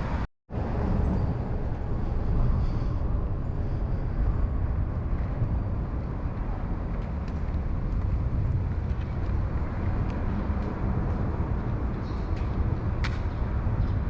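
Steady low rumbling outdoor city noise, with a sudden brief cut-out to silence just after the start.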